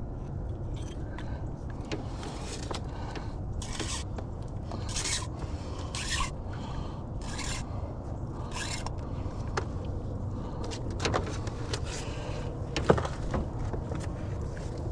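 A caught catfish being put on a stringer in a small aluminum boat: a run of short scrapes, about one a second, then a few sharp knocks, the loudest near the end, over a steady low rumble.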